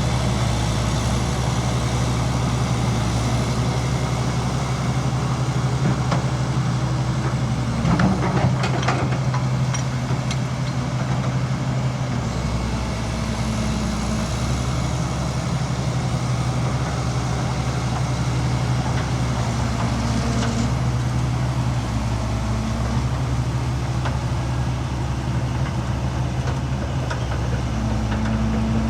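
Heavy diesel engine of earthmoving machinery running steadily, with a brief clatter of knocks about eight seconds in.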